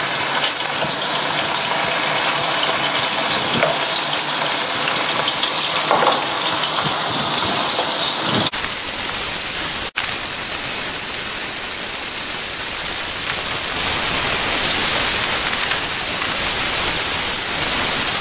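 Pork steaks searing in hot olive oil in a frying pan: a loud, steady sizzle. The sizzle changes abruptly about halfway through and drops out for an instant a second later.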